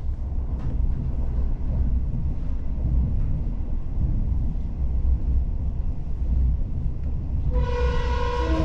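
Steady low rumble of a moving electric train heard inside the carriage. Near the end a pitched tone sounds, then steps down to a lower note, like a two-note chime.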